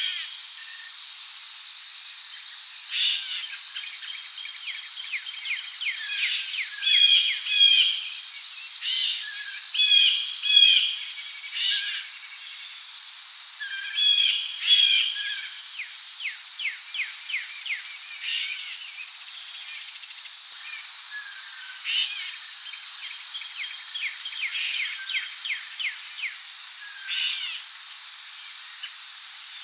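Rainforest ambience: a steady, high insect drone of crickets, with bird calls over it. The loudest calls are pairs of bright notes that come three times, and there is a quick run of short chirps about halfway through.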